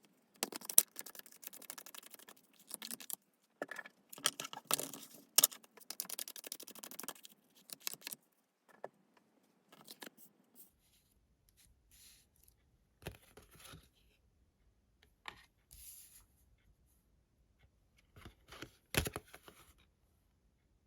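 Tarot cards being handled and shuffled: dense runs of quick papery clicks and slides, then scattered single clicks and short rustles as cards are set down, with a louder flurry near the end.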